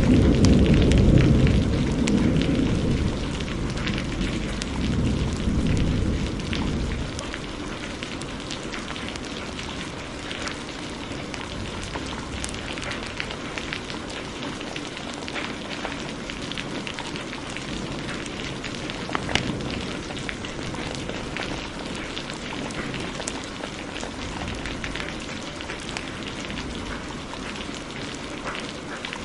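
Thunder rumbling low and dying away over the first several seconds, over steady heavy rain and a crackling wood fire that pops and snaps throughout.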